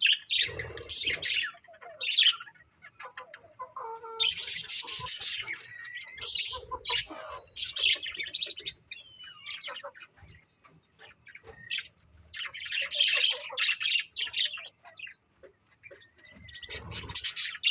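Budgerigars chirping and squawking in bursts of rapid, high chatter, with short gaps between the bursts.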